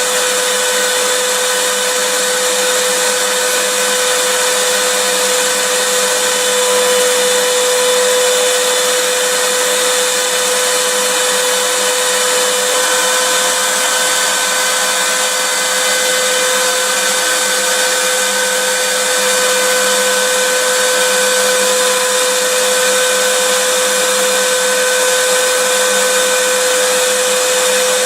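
Vacuum cleaner motor running steadily: a constant hiss of rushing air with a steady whine on top, unchanging throughout.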